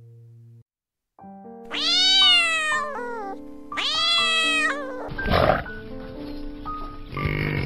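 A domestic cat meowing twice, each meow about a second long and rising then falling in pitch, over light background music. Near the end come two short, rough calf calls.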